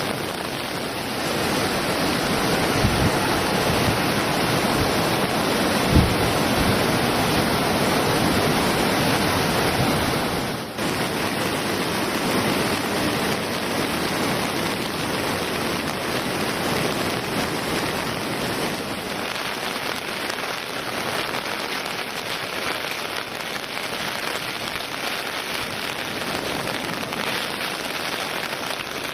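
Steady rushing noise of a river in typhoon flood, mixed with heavy rain. There is a brief low thump about six seconds in and a momentary drop about eleven seconds in.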